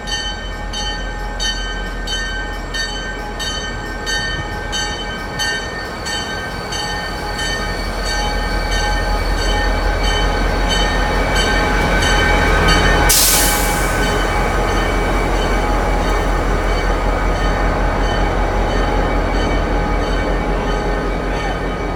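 Diesel passenger train arriving at a station, its engine rumbling under a bell that rings over and over, getting louder from about eight seconds in. About halfway through there is a short loud hiss of air, about a second long.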